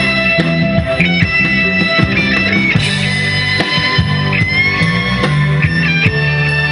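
Live band music: guitar and bass under a high lead melody that bends and wavers in pitch, with a steady drum beat.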